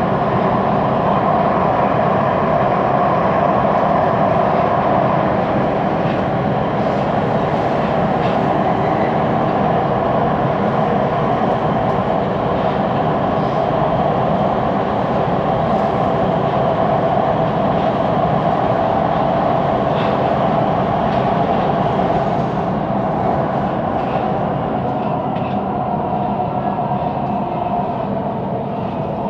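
Siemens Inspiro metro train heard from inside the carriage while running between stations: a steady wheel-on-rail rolling noise with a strong mid-pitched drone, the weird rolling noise of this carriage. It eases off slightly near the end.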